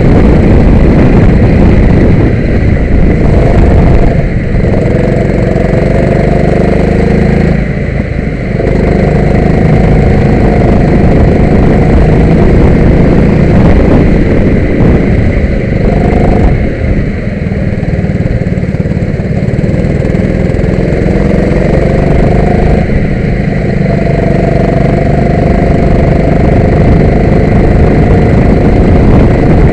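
Rental go-kart engine running hard around a circuit, its pitch climbing along the straights and dropping briefly about four times as the throttle eases off for corners.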